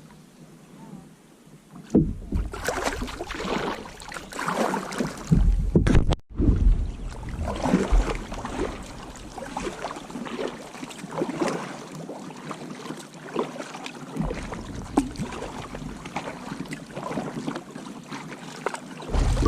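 Kayak paddle dipping and splashing in the water, stroke after stroke, starting about two seconds in, with wind rumbling on the microphone at times.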